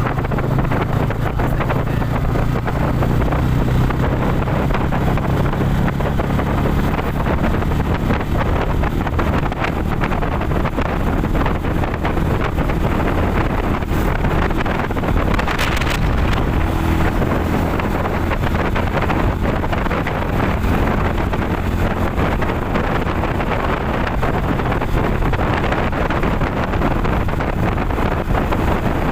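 Motorcycle engine running steadily while riding, with heavy wind noise buffeting the microphone.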